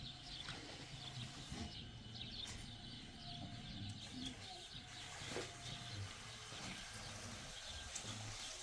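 Birds chirping and twittering, fairly faint, with soft low calls every second or two underneath.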